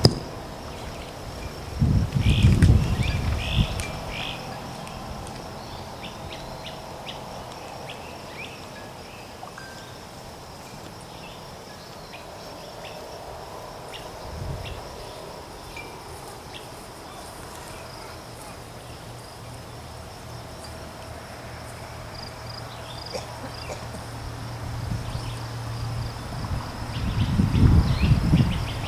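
Insects trilling steadily at a high pitch, with two brief low rumbles, one a couple of seconds in and one near the end.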